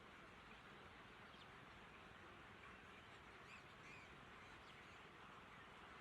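Near silence: a steady faint hiss with a few faint, short, high bird chirps scattered through it.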